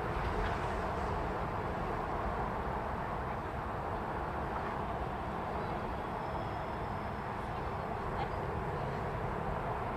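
A train running past on the line, a steady rolling noise with a low rumble underneath.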